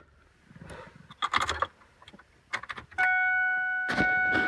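Keys rattling and clicking as the key goes into the ignition of a 2001 Ford F-350, then about three seconds in the dashboard's electronic warning chime comes on as a steady tone when the ignition is switched on ahead of a cold start of the 7.3 diesel.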